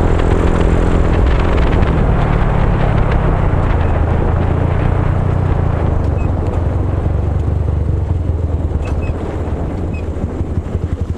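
Motorcycle engine running loud through an aftermarket Abimanyu racing exhaust, held at raised revs, then dropping back in the last few seconds to an idle of separate, even exhaust pulses.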